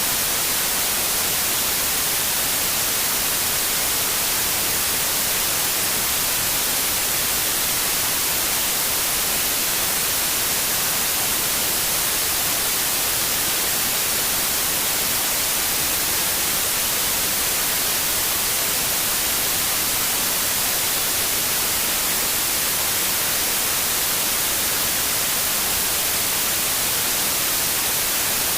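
Steady synthetic white noise: an even, unchanging hiss strongest in the high frequencies.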